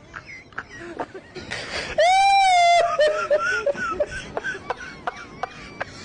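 Human voice sounds: small whimpers and snickers, with one loud, high, held cry about two seconds in that drops in pitch at its end.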